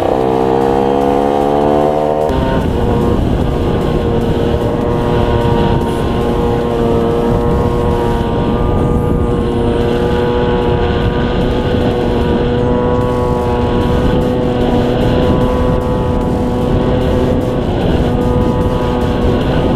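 A 50cc two-stroke Derbi DRD motorcycle engine under way. Its revs climb for about the first two seconds, then hold steady at a constant pitch.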